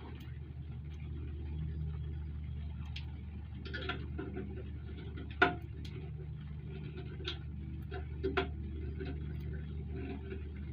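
A handful of sharp metal clicks and knocks from hand work on a motorcycle luggage rack's mounting, the loudest about halfway through, over a steady low hum.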